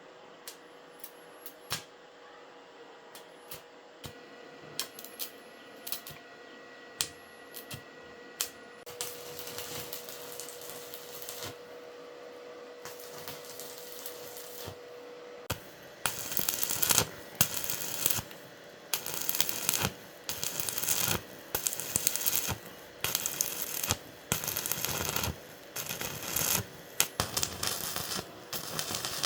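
Hand work on small metal parts: scattered light clicks and clinks at first, then from about halfway a long run of short, repeated scraping or rubbing strokes.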